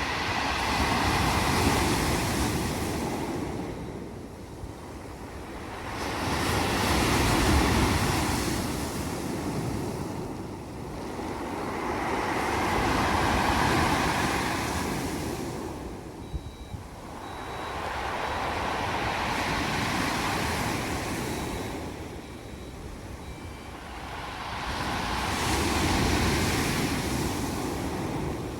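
Sea waves breaking on a pebble beach, the shingle rattling as each wave washes up and drags back. It comes in five slow surges, about six seconds apart.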